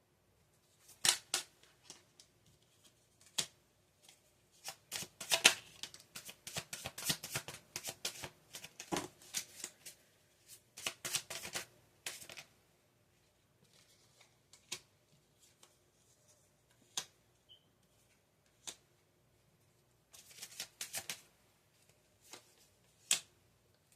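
Tarot cards being shuffled and handled: quick flurries of card flicks and taps, busiest from about five to twelve seconds in and again around twenty seconds, with scattered single clicks and quiet gaps between.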